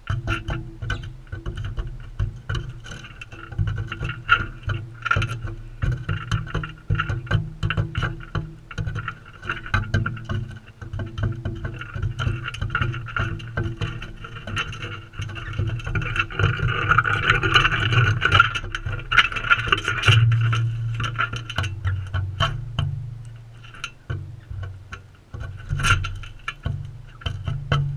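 Galahs feeding right at the camera: a rapid, irregular run of clicks and knocks from beaks pecking and cracking seed, over a low rumble.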